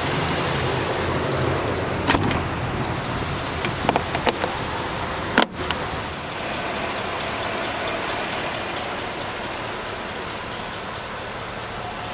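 Hood of a 2008 Hummer H2 being lowered and shut: a few light clicks, then one sharp knock about five and a half seconds in as it latches, over a steady low hum.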